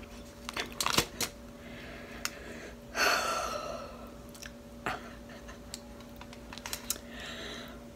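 Close-miked chewing of a soft chicken taco: scattered soft mouth clicks and wet chewing sounds, with a brief louder hiss about three seconds in, over a faint steady hum.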